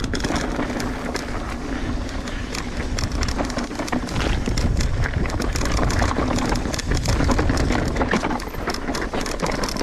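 Mountain bike going down a rough, wet dirt trail: a steady rush of tyre noise with many sharp clicks and knocks as the bike clatters over rocks and bumps.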